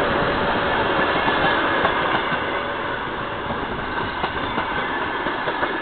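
Passenger coaches of an arriving express train rolling past close by: a steady rumble and hiss of wheels on the rails that slowly gets quieter as the train slows.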